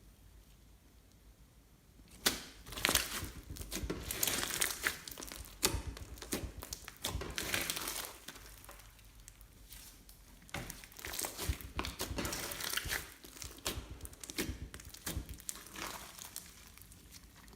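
Hands squishing and stretching slime, making irregular crackling and popping noises in bursts, starting about two seconds in.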